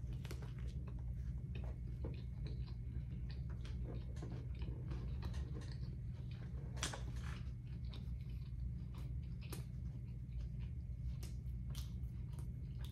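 A person chewing food close to the microphone, with irregular small clicks and crackles of the mouth and food, over a steady low hum.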